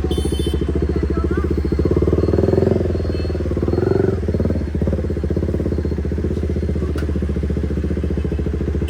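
KTM motorcycle engine with an aftermarket exhaust running steadily while riding, its exhaust pulses forming a fast, even beat. It grows slightly louder for a moment about two seconds in.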